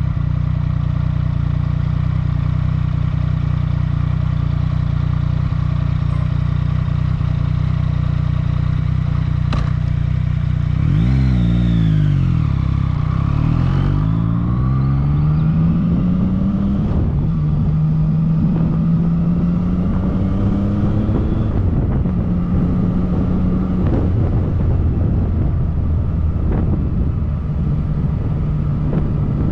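Yamaha MT-09 Tracer's inline three-cylinder engine idling, then about eleven seconds in revving up as the bike pulls away. It climbs in rising steps through a few upshifts, then settles to a steady run.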